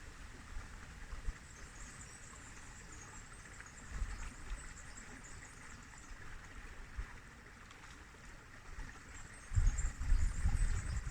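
River water flowing steadily. About nine and a half seconds in, a louder low rumble sets in and comes and goes.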